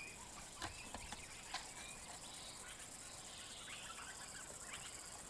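Faint bush ambience with birds calling in short chirps, and a few soft clicks in the first two seconds.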